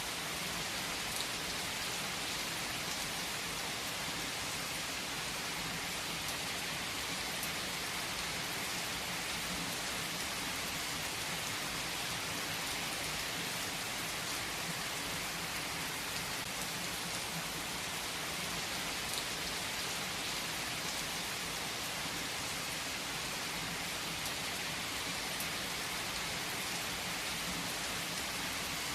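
Steady rain falling and pattering on a surface, an even hiss with occasional faint drop ticks.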